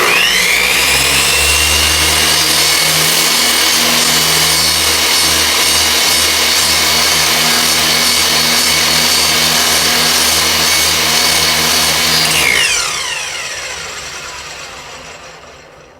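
Electric miter saw switched on, spinning up with a rising whine and running steadily for about twelve seconds, then switched off and winding down with a falling whine that fades out.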